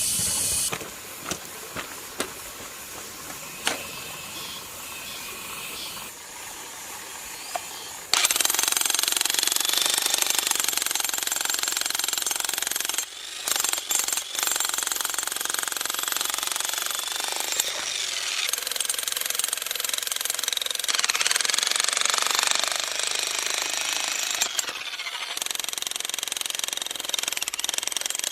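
Repaired walk-behind tiller's engine starts about eight seconds in and then runs loudly and steadily, after a quieter stretch with a few sharp clicks; this is its first run after being flooded.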